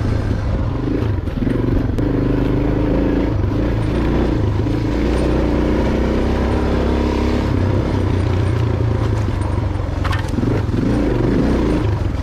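Motorcycle engine running at low revs on a rough descent, its note rising and falling with the throttle, with brush scraping and clattering against the loaded panniers.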